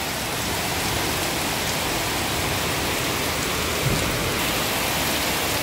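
Heavy rain falling steadily on a paved street and the water pooling on it, a dense even patter.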